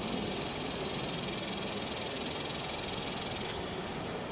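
High, steady insect buzzing that fades a little near the end.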